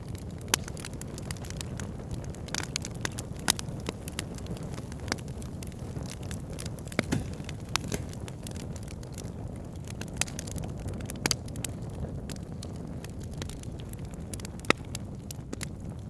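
Wood fire burning in a fireplace: a steady low rumble of flames with irregular sharp crackles and pops from the burning logs, a few louder pops scattered through.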